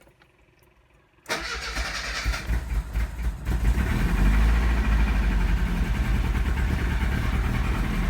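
Carbureted engine starting from cold on choke: it catches suddenly about a second in, runs unevenly at first, then settles into a louder, steady run from about four seconds in.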